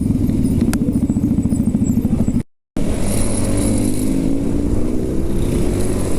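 Motorcycle engine on its stock exhaust, pulsing fast under throttle. The audio drops out briefly about two and a half seconds in. Then the engine accelerates, its note rising steadily.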